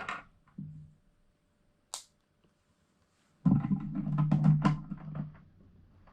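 Plastic LEGO pieces clicking and knocking as they are handled and pressed together: a single click after a near-silent stretch, then a busy run of sharp clicks over a steady low hum from about three and a half seconds in.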